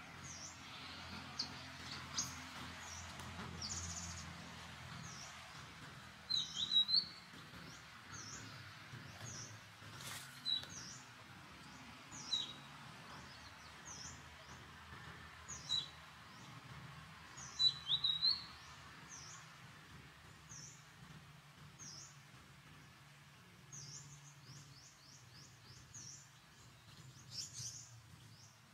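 Small birds chirping: a steady run of short, high, falling chirps about once a second, with louder clusters of chirps about a quarter of the way in and again a little past halfway, over a faint steady background hiss.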